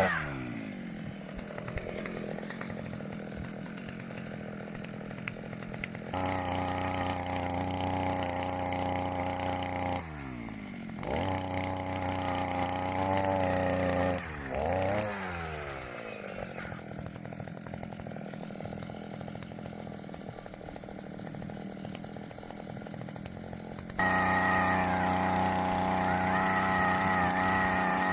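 Chainsaw engine revving up and dropping back toward idle several times, with sharp changes in loudness about 6 and 24 seconds in.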